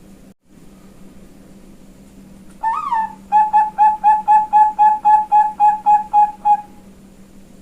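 Female Bangkok zebra dove (perkutut bangkok) cooing. It gives one opening note that rises and falls, then a quick run of about thirteen short, even notes at roughly four a second, over a steady low hum.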